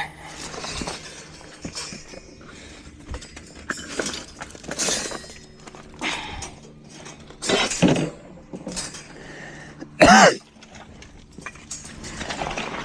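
Scattered clanks, knocks and scrapes of junk and debris being handled and set down, with one short, loud pitched call about ten seconds in.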